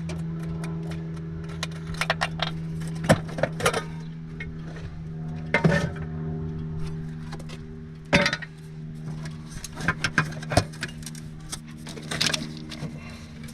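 1981 AMC Spirit four-cylinder engine running with a steady hum while the two-barrel carburetor is given irregular metallic taps and clinks. The engine is not getting enough gas, and the carburetor is being tapped to get fuel through, with a failing accelerator pump suspected.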